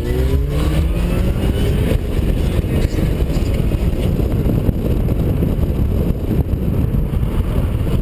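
Mini Cooper S R53's supercharged 1.6-litre four-cylinder accelerating hard, its pitch rising steadily for about the first two seconds. After that the engine is largely buried under a dense rush of wind on the microphone mounted outside the car.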